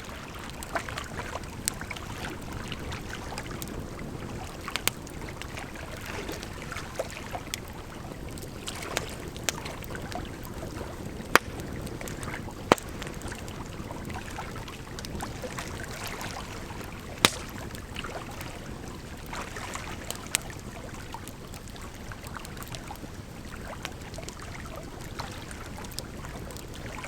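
Campfire crackling, with irregular sharp pops and snaps and a few louder cracks, over a steady rush of flowing water.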